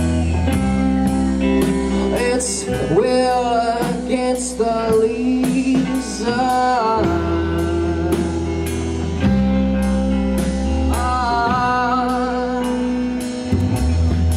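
Live rock band playing a song: drum kit keeping a steady beat, bass and guitars holding chords, with a lead melody sliding between notes over them.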